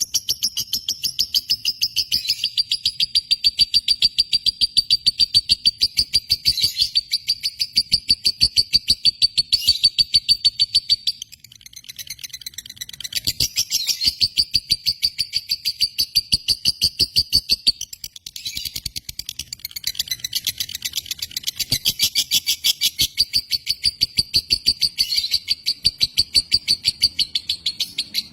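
Lovebird singing a long, fast chattering song of high, evenly repeated chirps, about seven a second, that falters briefly twice before running on.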